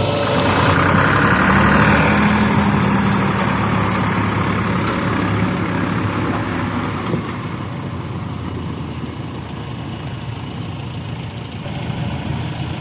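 Heavy diesel engine of a backhoe loader or tractor running, louder and working harder in the first couple of seconds, then easing off to a steadier, quieter run.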